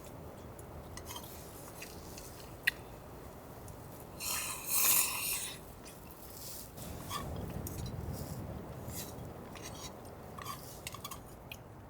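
Light clinks and ticks of camp dishes and utensils being handled after a meal, with a louder scraping rustle about four seconds in.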